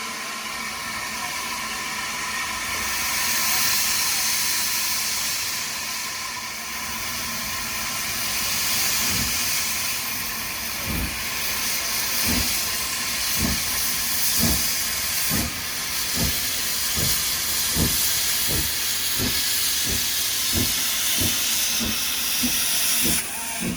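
Steam locomotive hissing steam, then pulling away: from about halfway through, exhaust chuffs begin, slow at first and then quickening as it gathers speed.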